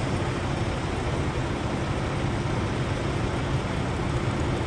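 Steady low rumble and hiss of an idling truck engine heard from inside the cab.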